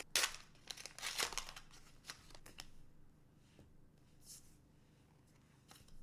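Trading cards being handled and shuffled, with a few seconds of card rustling and sliding followed by a few light clicks.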